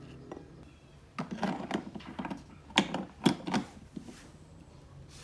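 A run of clattering knocks and scrapes, as of hard objects being handled, starting about a second in, with two sharp knocks about half a second apart near the middle.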